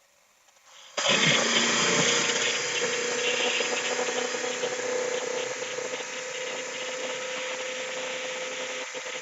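A 1998 Mazda 626's 2.0-litre four-cylinder engine running, cutting in abruptly about a second in, then holding steady and easing off slightly. The engine's ignition timing is retarded to about 0–2°, well short of the 6–18° idle spec, and it idles rough.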